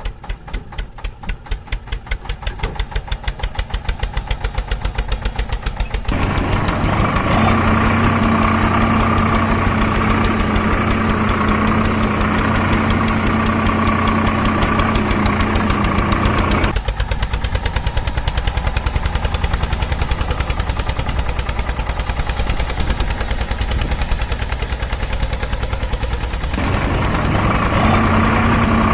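Tractor engine chugging, its beats speeding up over the first few seconds, then running steadily. The running sound switches abruptly about six, seventeen and twenty-seven seconds in.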